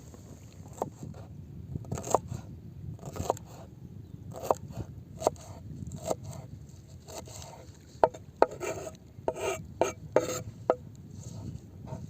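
Irregular short scrapes and knocks, a dozen or so, bunching together about two thirds of the way through, over a steady low outdoor rumble.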